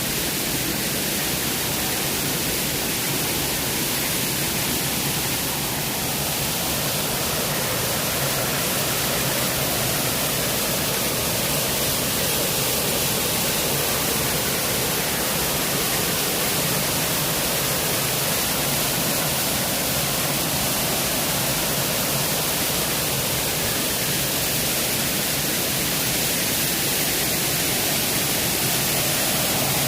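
A waterfall: falling, rushing water as one steady, unbroken noise.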